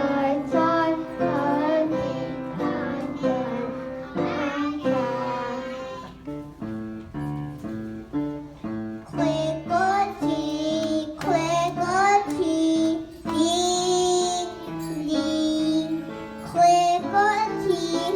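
A group of young children singing a song together with guitar accompaniment. About six seconds in, the voices drop away briefly and the guitar carries on alone; the singing comes back around nine seconds in.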